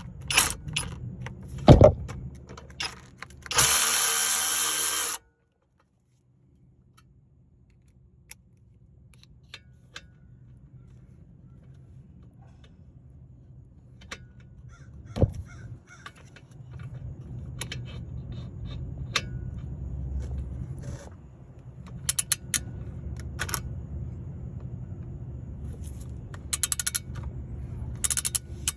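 Metal tools and brake parts clinking and clanking during a brake pad job. A loud hiss lasts about a second and a half near the start, and a low rumble runs under scattered clicks in the second half.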